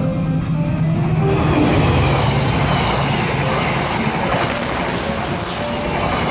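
Diesel-electric locomotive-hauled passenger train passing close by at speed. The sound swells about a second in as the locomotive comes past, loudest around two seconds in, then settles into the steady running noise of the stainless-steel coaches' wheels on the rails.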